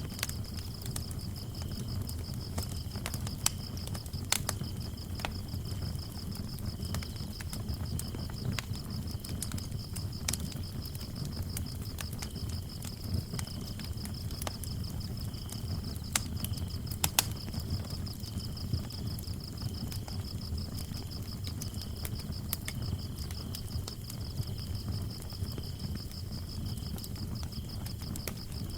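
Crickets chirping in a steady, rapid high trill, with a second cricket trilling in broken stretches at a lower pitch. Under them a wood fire crackles with scattered sharp pops over a low rumble.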